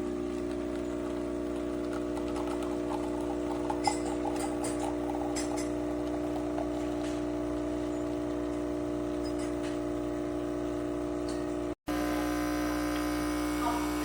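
Espresso machine's pump running with a steady electric buzz, with a few faint ticks, cutting out for a split second near the end.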